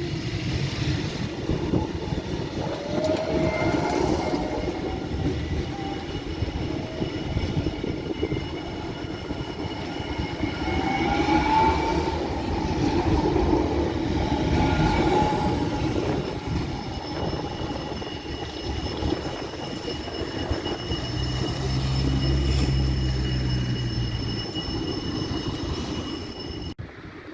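Electric tram running on rails: a steady rumble of wheels on track, with a motor whine that rises in pitch a few times and thin, steady high squealing tones. The sound cuts off abruptly near the end.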